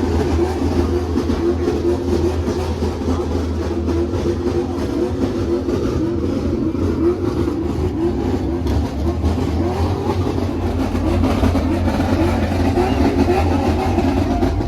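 A car engine running steadily, with a deep low drone throughout.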